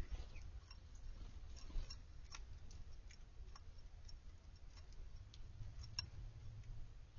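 Small backyard birds pecking and cracking seed: irregular light ticks and clicks, over a low steady rumble.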